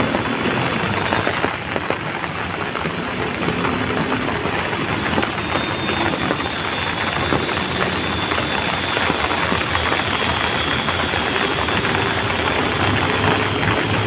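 Heavy rain falling, a dense, steady hiss with no letup.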